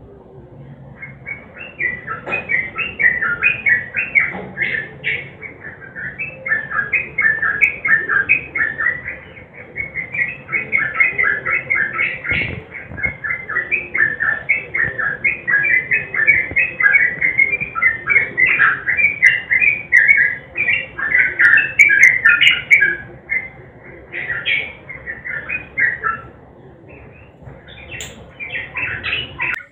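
Yellow-vented bulbul (trucukan) singing long, fast chattering phrases of short notes, almost without a break. The song pauses briefly near the end and then starts again.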